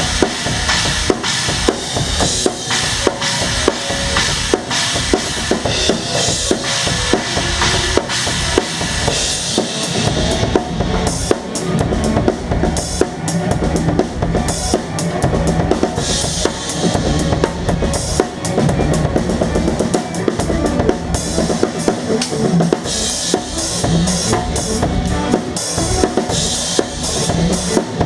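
Live band performance with the drum kit to the fore: bass drum, snare and cymbals played in a dense, driving pattern under the rest of the band. About ten seconds in the cymbal wash drops away to tighter, choppier hits, then comes back in stretches.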